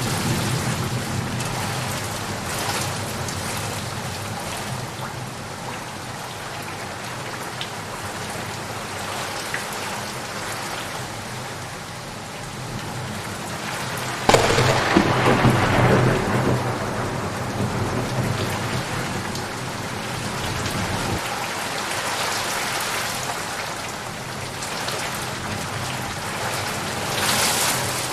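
Steady rain falling, with a sharp thunderclap about halfway through that rumbles on for several seconds before fading.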